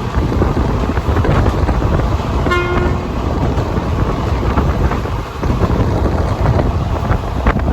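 Passenger train running at speed, heard from on board as a steady heavy rumble with rushing air. A short horn toot comes about two and a half seconds in, and a sharp knock near the end.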